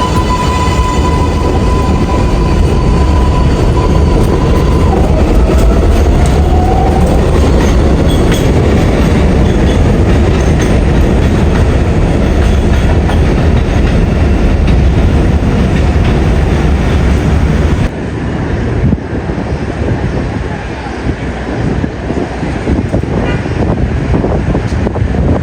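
New York City subway train running, a loud steady rumble of wheels on rail with a high steady squeal for the first few seconds and a short rising whine about six seconds in. About eighteen seconds in the heavy low rumble cuts off abruptly, leaving a thinner, quieter noise.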